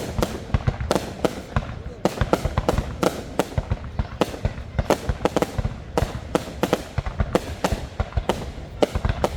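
Fireworks bursting in rapid, irregular succession, several sharp bangs a second over a low rumble.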